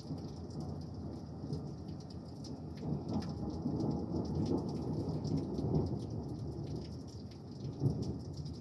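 Thunder rumbling over steady rain. The rumble swells to its loudest in the middle and fades, with a sharper crack near the end, while individual raindrops tick on a nearby surface.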